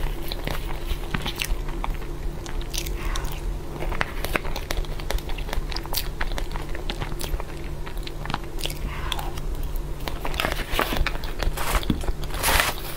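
Close-miked mouth sounds of eating a soft cookies-and-cream dessert: wet smacking and chewing clicks, repeated irregularly, over a low steady hum. A short rushing noise comes near the end.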